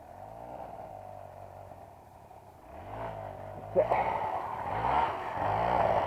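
Trail motorcycle engine running low and quiet, then revving up from about three seconds in. A sharp clack comes near four seconds, and the engine runs louder after it.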